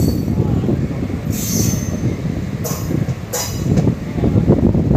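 Passenger train coach rolling along the rails, heard from the coach's window: a steady wheel-and-rail rumble with three short, high-pitched wheel squeals.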